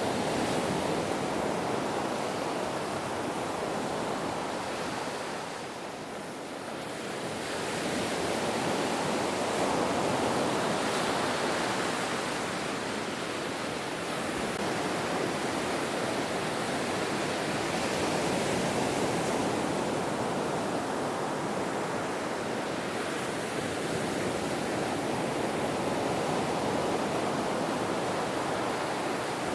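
Ocean surf: a continuous wash of breaking waves that swells and eases, with a short lull about six seconds in before the next wave builds.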